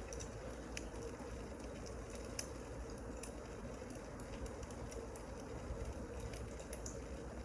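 Wood fire crackling, with irregular small pops and snaps over a steady low hiss.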